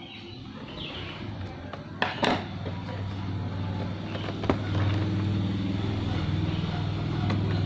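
A motor vehicle's engine running steadily, growing louder from about three seconds in. A few sharp clicks and knocks come about two seconds in and again near the middle.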